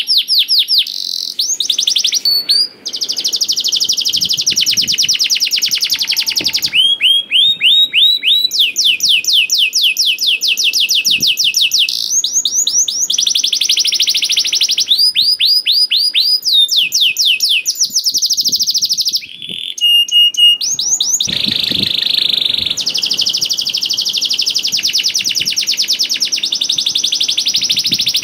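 Canary in full song: a long, almost unbroken run of rapid trills, each made of fast repeated notes sweeping up and down, switching to a new trill every second or two.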